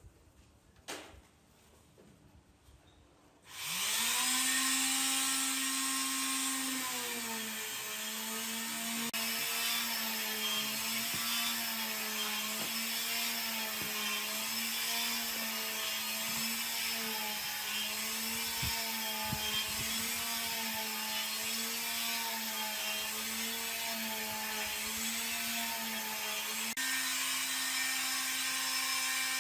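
Electric power tool working wood: the motor starts about four seconds in, winds up to a steady whine, then drops slightly and wavers in pitch as it bites into the work, easing back up near the end.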